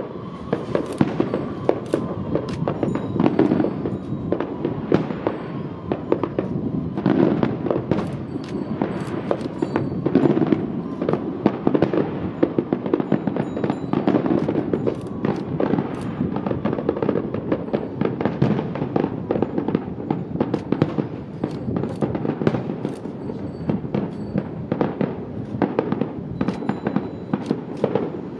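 Fireworks display: a rapid, irregular run of bangs and crackling bursts, several a second, over a dense continuous din.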